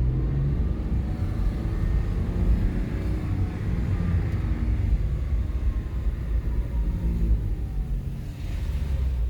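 Porsche 997's flat-six engine and road noise as the car is driven slowly, with a steady low rumble. The engine note rises a little over the first few seconds and eases back down toward the end.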